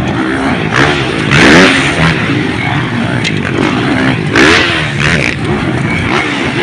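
Motocross dirt bike engines running and revving hard as bikes race on the track. There are two loud rising revs, about a second and a half in and again at about four and a half seconds.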